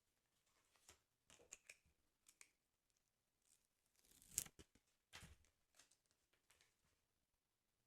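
Quiet paper handling on a sticker album: a few faint crinkles, then two louder, sharp paper sounds a little after four and five seconds in, followed by softer rustles.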